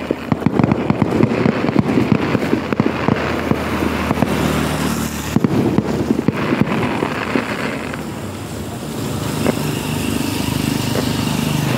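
Fireworks going off in a rapid barrage of bangs and crackles, thinning out after about four seconds, with another short flurry around six seconds in. In the last few seconds a small engine runs close by, getting steadily louder.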